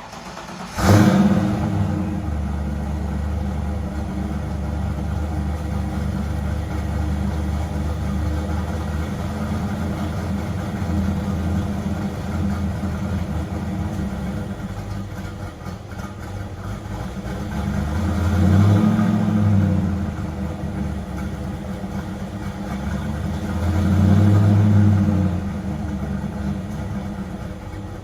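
Car engine starting, catching with a loud flare about a second in, then settling into a steady idle with a deep low rumble. It is revved twice, briefly, later on.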